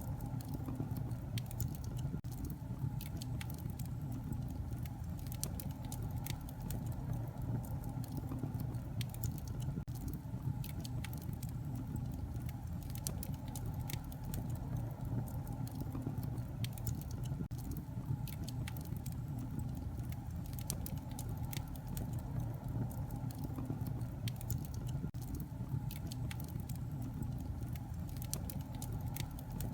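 Wood fire burning in a fireplace, with a steady low rumble of flames and irregular sharp crackles and pops throughout.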